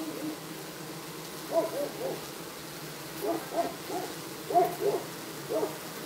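A bird calling off-screen in short hooting notes, about nine in all, in quick groups of two or three.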